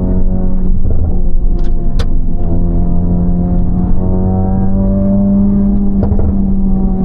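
Honda Civic FL5 Type R's turbocharged 2.0-litre four-cylinder, breathing through an HKS Legamax exhaust and aftermarket downpipe, heard from inside the cabin while driving, its pitch climbing slowly under acceleration. A few sharp clicks sound about one and a half to two seconds in.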